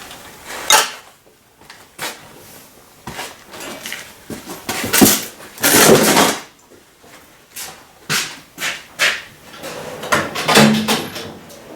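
Hand tools and engine parts being handled while an ignition coil is pulled from the Audi Q5's engine: a run of sharp clicks and clunks, with a longer scraping clatter about six seconds in.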